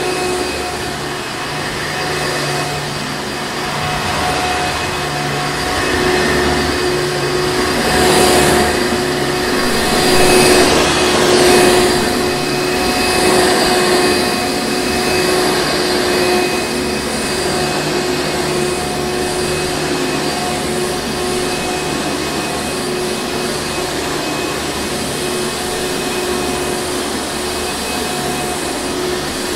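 Hoover Encore Supreme vacuum cleaner running continuously, a steady motor whine over the rush of air, swelling louder a couple of times in the middle.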